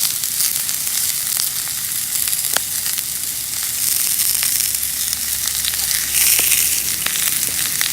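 Sirloin steak sizzling on a hot, oiled cast-iron griddle plate: a steady, loud frying hiss peppered with sharp spitting pops, swelling briefly about six seconds in.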